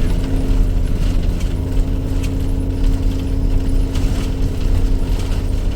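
RV's engine and road rumble heard inside the cab while driving, a steady low drone with a steady hum over it and light rattles now and then.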